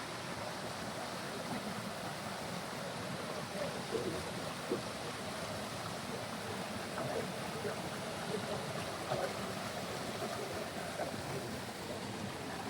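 Steady rush of a flowing stream, with a few faint clicks now and then.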